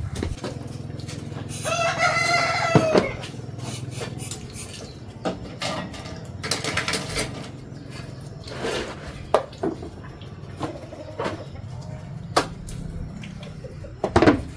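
A rooster crows once, a single drawn-out call about two seconds in, with scattered clicks and knocks around it.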